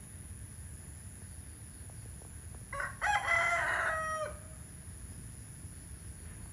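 A rooster crows once, a single call of about a second and a half starting near the three-second mark, held steady and dropping off at the end.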